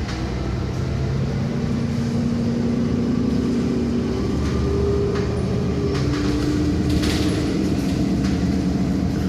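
City bus running, heard from inside: a steady low rumble with humming engine tones that shift in pitch now and then.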